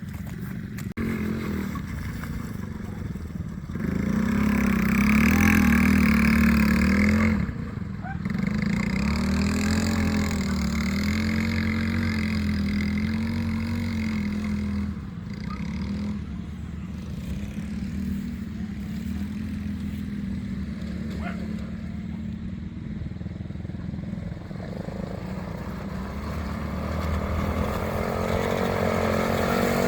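ATV engine running and revving, pulling harder about four seconds in, easing off, then building again near the end.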